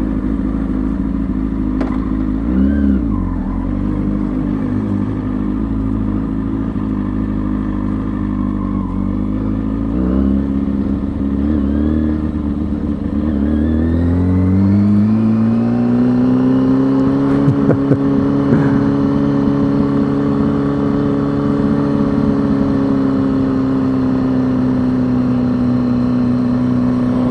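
A Kawasaki ZX-6R's inline four-cylinder engine running under way, first at a steady speed with a low rumble underneath, then rising smoothly in pitch about halfway through as the throttle opens, and holding steady at the higher revs.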